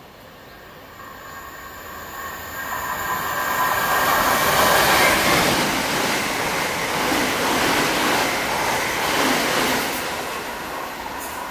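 Great Northern electric multiple unit passing through the station at speed without stopping. It approaches with a steady high hum, rises to a loud rushing roar of wheels on rails as the carriages go by, then fades as it runs away.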